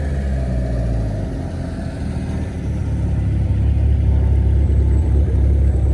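Motor vehicle engine running at low speed: a low, steady rumble that dips slightly and then grows louder about three seconds in.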